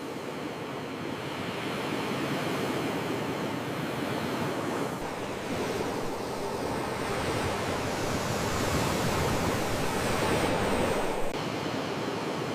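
Sea waves washing onto the shore as a steady rushing noise, building to a louder surge in the second half that drops off abruptly about eleven seconds in.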